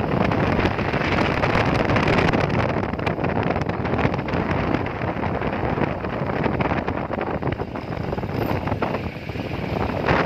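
Wind buffeting the microphone on a moving motorcycle, with engine and road noise underneath. It is a steady, loud rush that flutters constantly.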